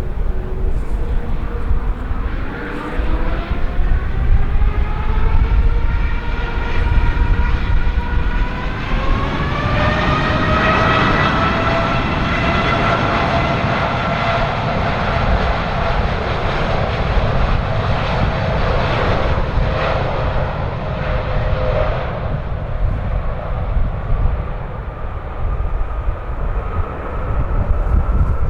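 Boeing 787-8 Dreamliner's Rolls-Royce Trent 1000 turbofans spooling up to takeoff thrust: a whine rising in pitch for about ten seconds, then holding steady over a heavy low rumble, before the whine cuts off suddenly about two-thirds through. Strong wind buffets the microphone throughout.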